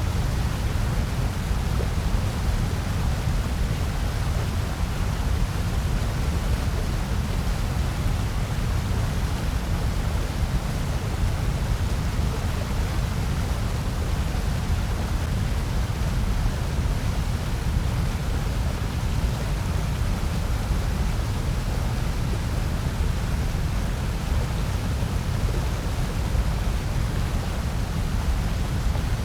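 Steady generated noise from a white-noise track, an even rushing hiss weighted towards a deep rumble, unchanging throughout.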